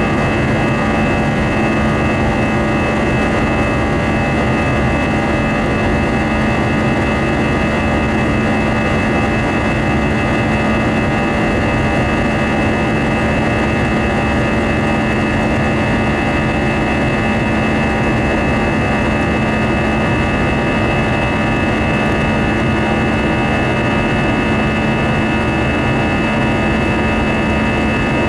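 Steady cabin noise of an Airbus A319 climbing after takeoff, heard from the front row: an even rush of air and engine noise with a low steady hum and several steady higher tones.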